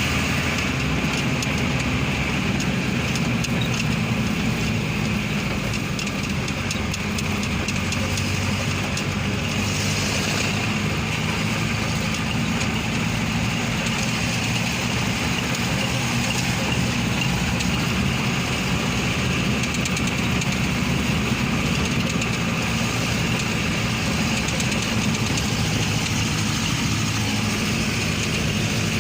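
A truck's engine running steadily at an even pitch, with a steady hiss of road noise.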